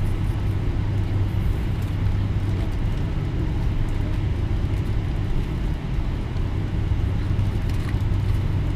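Steady low drone of a Boeing 777-300ER airliner during pushback, a constant deep hum that holds its level throughout.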